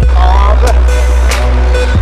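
A PowerBass car audio system playing a hip-hop/R&B track loud, with heavy, sustained deep bass and sharp cymbal hits on the beat.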